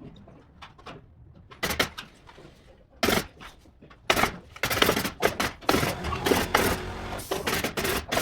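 Construction noise from carpentry work: a few sharp knocks, then a dense run of clattering and banging bursts from about halfway in.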